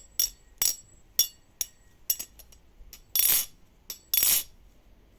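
Butterfly knife (balisong) being flipped: a string of sharp metallic clacks as the handles swing against the blade, with two longer, noisier clatters about three and four seconds in.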